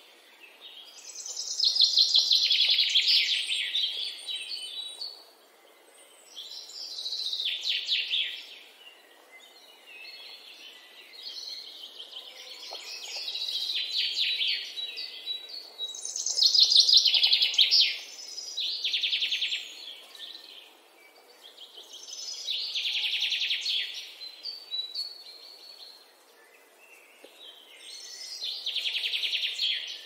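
Birds calling in about eight bouts of rapid, high-pitched harsh chattering, each lasting one to three seconds with short pauses between them.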